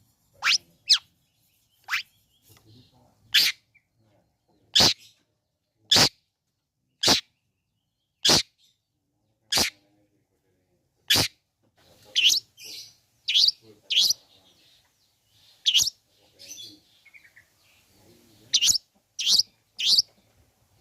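Long-tailed shrike (cendet) giving loud, sharp harsh calls, about one a second at first. Past the middle they turn into a quicker, jumbled run of calls with softer chattering between them.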